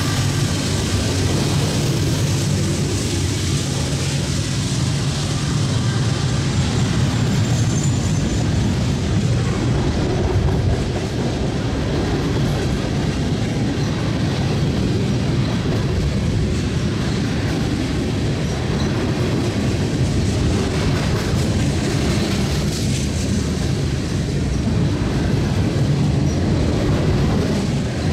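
BNSF freight train rolling past at close range: the last diesel locomotive gives way to tank cars and boxcars, making a steady loud noise of steel wheels running on the rails.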